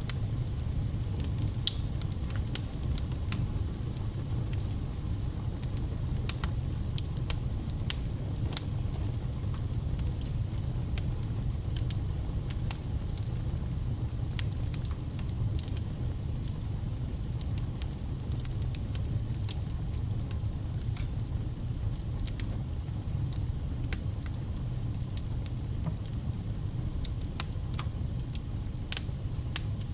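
Wood fire burning: a steady low rumble of the flames with irregular, sharp crackles and pops of the logs.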